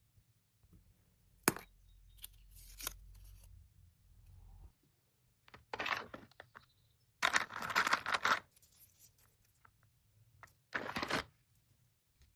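Packing noises: a sharp click, then three short tearing rips, the middle one the longest.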